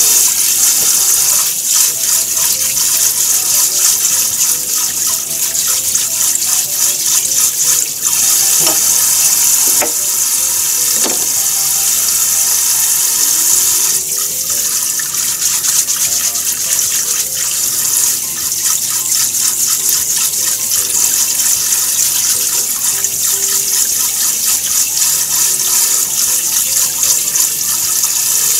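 Kitchen faucet running in a steady stream into a sink.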